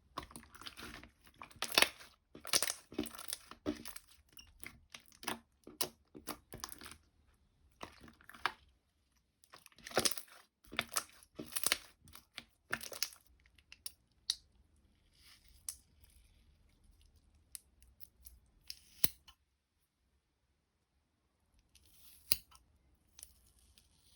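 Slime being squeezed and stretched by hand, with sticky crackling and popping of trapped air in irregular bursts and a brief pause near the end.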